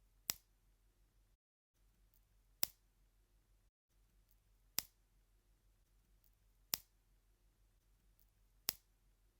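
Five sharp, short clicks, evenly spaced about two seconds apart, over a faint low hum.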